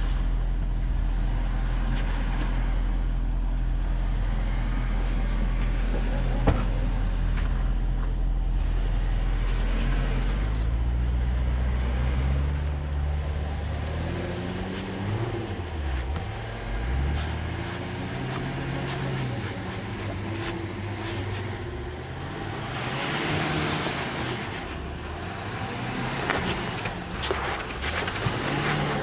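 Range Rover L405's engine, a steady low drone for about the first twelve seconds, then revs rising and falling over and over as the SUV crawls over rocky ledges under load. A single sharp knock sounds about six seconds in.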